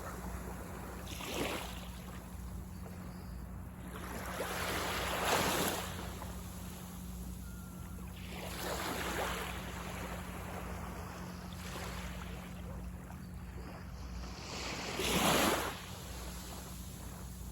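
Sea waves breaking on a beach: a swell of surf rises and falls every three to four seconds, the loudest near the end, over a steady wash of water.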